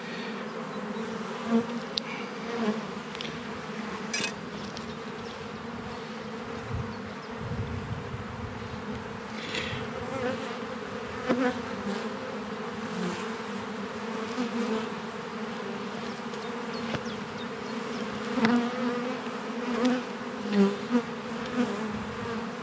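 A colony of honeybees buzzing steadily around an open hive. The steady hum is broken by a few short knocks.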